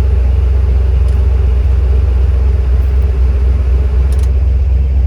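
Ford 427 side-oiler FE V8 engine idling with a steady, low rumble.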